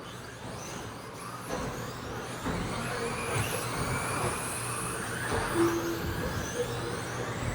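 Electric 1/10-scale RC stadium trucks with 13.5-turn brushless motors racing on a dirt track. Their motors whine, rising and falling in pitch as they accelerate and brake, over a steady low hum.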